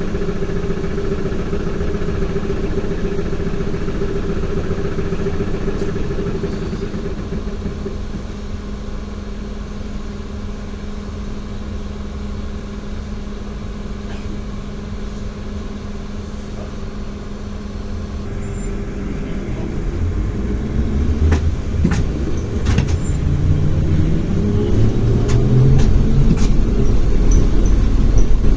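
ZiU-682 trolleybus running with a steady electric hum that grows fainter for a while. About twenty seconds in, the traction motor's pitch rises as the trolleybus accelerates, with a few sharp clicks, and it gets louder toward the end.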